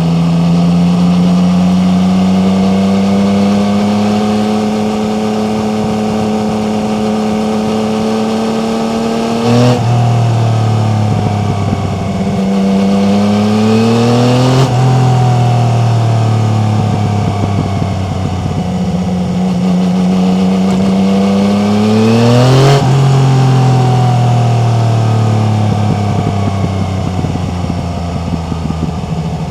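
Yamaha MT-09's three-cylinder engine pulling under load, its note climbing steadily through each gear. It drops sharply at upshifts about 10, 15 and 23 seconds in.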